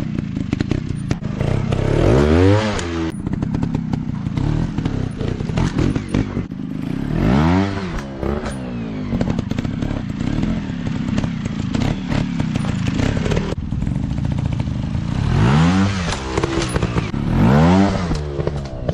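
Dirt bike engines running, with the throttle opened and closed about four times, each a quick rise and fall in pitch, over a steady engine drone. Rattling and clattering run underneath.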